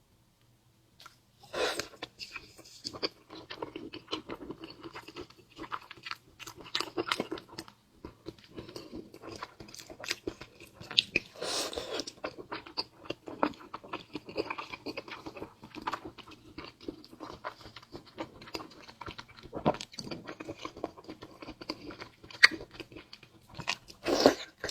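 Close-miked chewing and wet mouth sounds of someone eating a salmon skewer: many small smacks and clicks, starting after about a second and a half.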